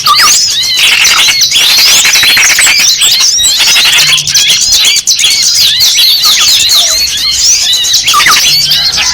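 A dense, loud chorus of small songbirds chirping and squawking over one another in quick rising and falling notes. It is a bird-lure call of agitated small birds, meant to sound like a trapped bird in distress.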